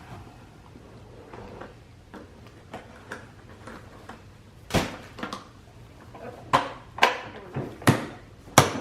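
Things being handled and unpacked: soft rustling, then five sharp clicks and knocks in the second half, the loudest near the end.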